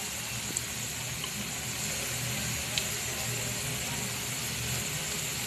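Breadcrumb-coated donuts sizzling steadily in a frying pan of shallow oil, with a few faint pops of spattering oil.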